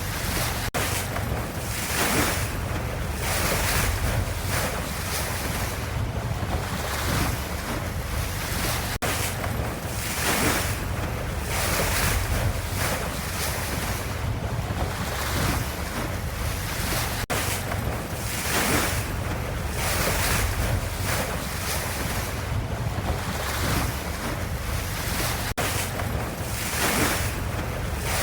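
Ocean waves washing continuously, the surf swelling and easing every second or two.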